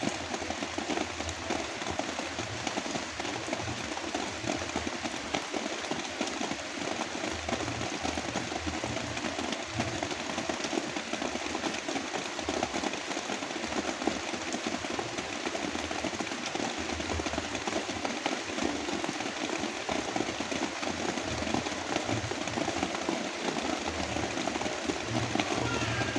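Heavy rain falling as a dense, even hiss, layered with a low brown-noise rumble.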